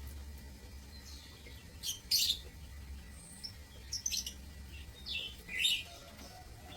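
Lovebirds chirping in short, sharp high-pitched calls, loudest about two seconds in and again near the end, over a steady low hum.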